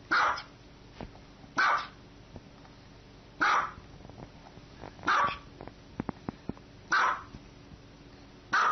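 Small dog barking: six short, sharp barks spaced about one and a half to two seconds apart.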